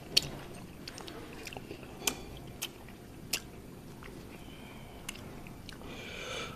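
A person chewing a mouthful of food close to the microphone, with scattered sharp mouth clicks and smacks a second or so apart. The loudest click comes just after the start.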